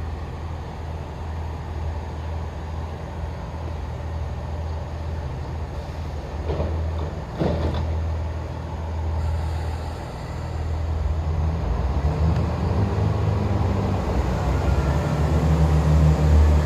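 Chiltern Class 165 diesel multiple unit running at the platform with a steady low diesel rumble and a couple of short knocks past the middle; from about ten seconds in the engine note rises and grows louder as the unit powers up.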